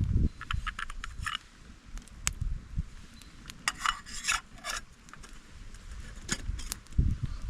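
Small objects being handled: a run of sharp clicks and taps, a few short scraping rustles about four seconds in, and a dull knock near the end.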